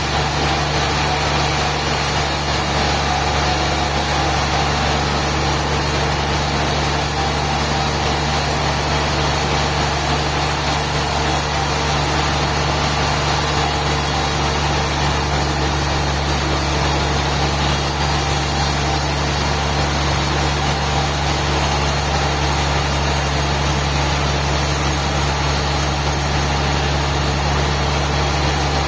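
Sawmill machinery running steadily with an even, unchanging low drone.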